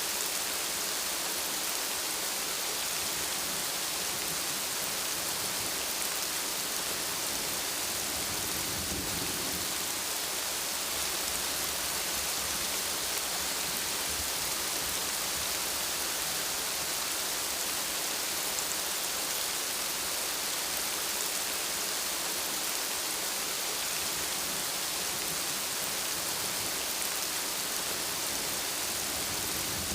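Steady, dense rainfall, an even hiss of drops falling on a surface. A low rumble of thunder swells briefly about nine seconds in.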